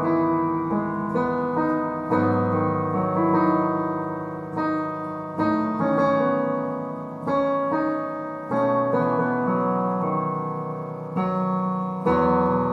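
Background piano music: slow chords struck every second or two, each dying away before the next.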